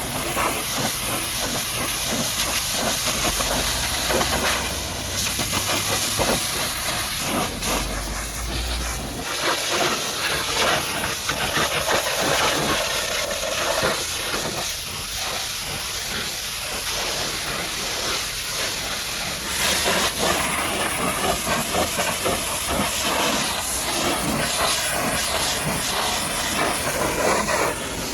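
High-pressure washer jet spraying water onto a muddy truck: a continuous hiss of spray whose loudness rises and falls.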